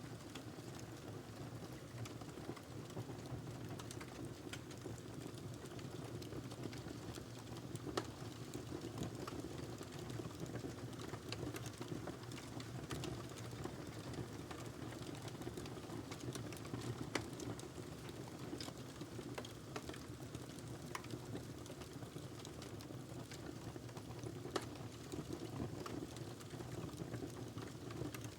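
Wood fire burning in a fireplace: a steady low rumble of flames with scattered crackles and pops from the burning log, a few sharper pops standing out.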